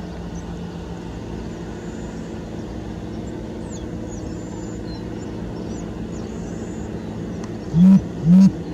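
Steady low droning hum of aircraft engines, with faint bird chirps in the middle. Near the end come two loud, short, low honk-like tones about half a second apart.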